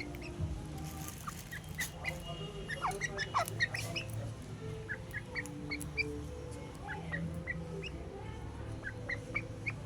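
Birds giving many short, high chirps, a few a second, over a steady low hum. Two louder calls slide downward in pitch about three seconds in.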